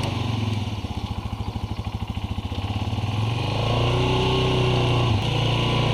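ATV engine running with a pulsing throb, then revving up from about three and a half seconds in and dropping back sharply just after five seconds.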